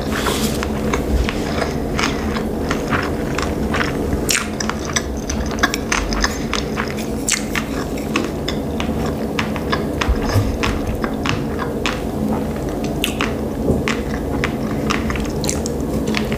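Close-miked chewing of sushi rolls: a continual run of short mouth clicks and smacks over a steady low hum.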